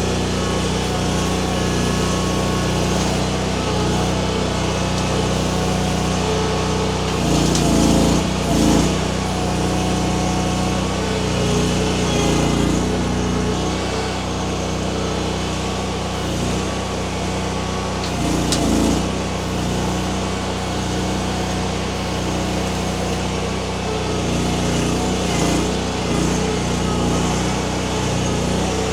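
Baumalight mini skid steer's engine running steadily, swelling briefly a few times, about a quarter of the way in, near the middle and about two-thirds through, as it takes load.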